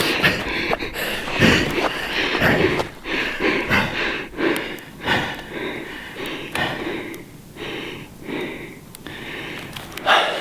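A man breathing heavily, with sniffles and gasps, overcome with emotion after the kill.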